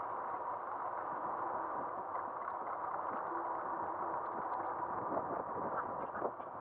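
Steady rushing noise of wind and riding on a camera mounted on the front of a moving e-bike, with a faint steady whine underneath.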